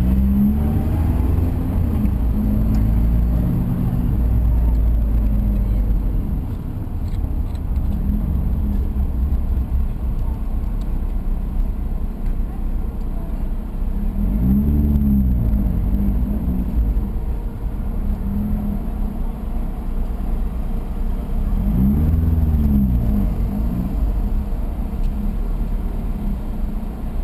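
Mazda MX-5's four-cylinder engine, heard from inside the car, pulling away and easing off in slow stop-and-go traffic. Its pitch rises and falls in several brief surges, the strongest about halfway through and again near the end.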